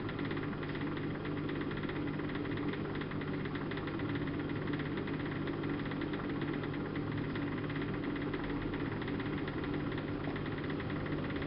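Siemens Siwamat IQ-series washing machine running, with a steady motor hum and drum noise. A faint rising tone comes in near the end.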